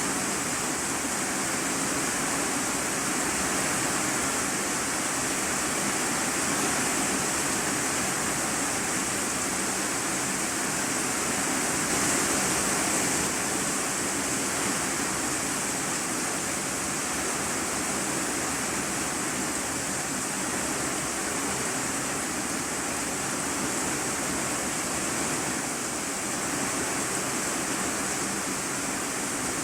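Heavy rain falling on an iron-sheet roof, heard from inside the room beneath: a dense, steady hiss that swells slightly about halfway through.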